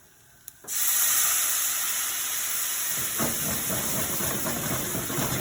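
Chicken stock poured into a hot pan of oil-toasted curry powder and turmeric, bursting into a loud steam hiss and sizzle about a second in. From about three seconds in a crackling sizzle joins the hiss.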